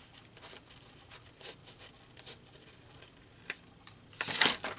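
Paper being handled for a collage: a few light rustles and scrapes, then a louder, longer paper rustle about four seconds in.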